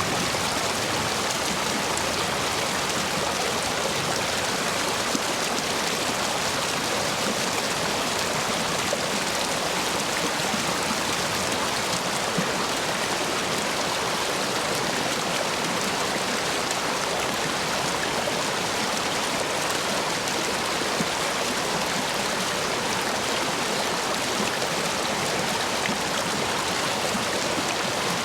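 Stream water rushing and splashing steadily over and between stepping stones, a dense, even flow swollen by recent heavy rain.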